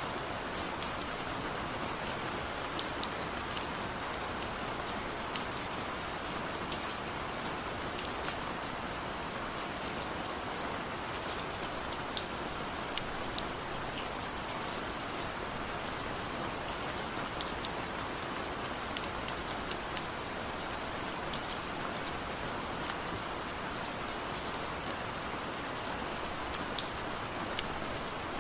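Steady rain falling, a constant hiss with many sharp individual drop ticks striking a surface throughout.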